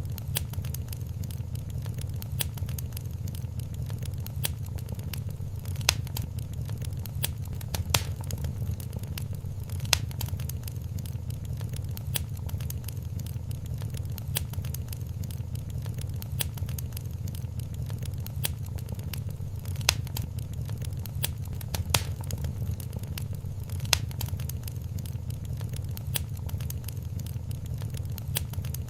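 Wood fire in a fireplace crackling, with frequent small crackles and a few louder sharp pops over a steady low rumble.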